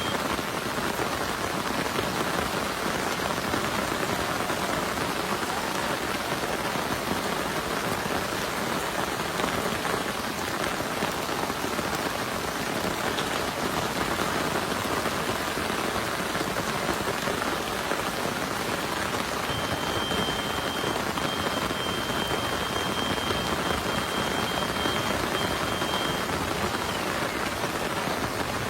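Heavy rain falling steadily in a dense, even downpour. A thin, steady high tone sounds faintly for several seconds in the latter part.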